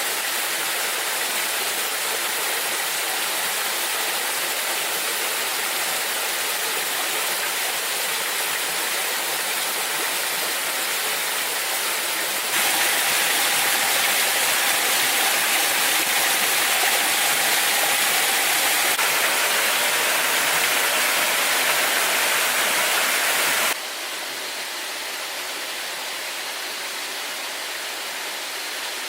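Steady rush of falling water from a waterfall. It turns abruptly louder and brighter about twelve seconds in, then abruptly quieter near the end, as if from different spots along the water.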